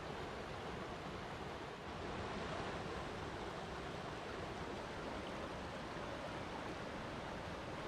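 Flowing water rushing steadily, an even hiss with no distinct splashes, dipping briefly just under two seconds in.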